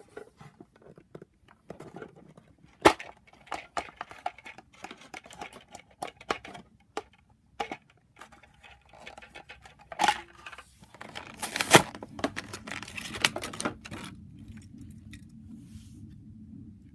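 Toy blister packaging being opened by hand: plastic and cardboard tearing and crinkling, with scattered sharp clicks and knocks, the loudest about 3 seconds in and again about 12 seconds in.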